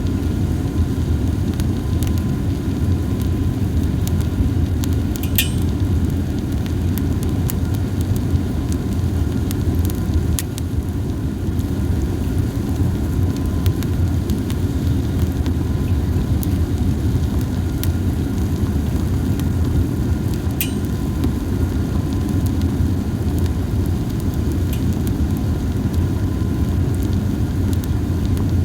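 Campfire of dried hinoki cypress cones burning with a steady low rumble and only sparse crackling: a few sharp pops, the clearest about five, ten and twenty seconds in.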